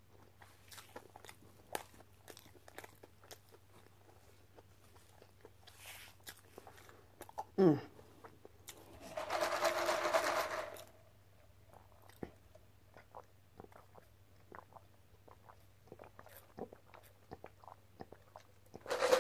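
Close-miked chewing of fast food: soft crunches and wet mouth clicks. A louder rushing noise with a steady hum lasts about two seconds near the middle, and a sip through a drinking straw comes near the end.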